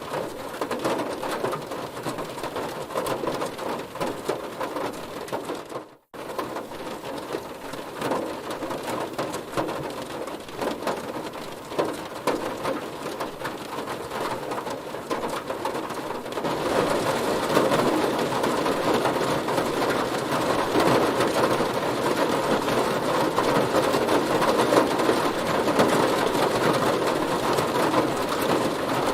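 Heavy rain drumming steadily on a car. It cuts out for a split second about six seconds in, and gets louder and heavier a little past halfway.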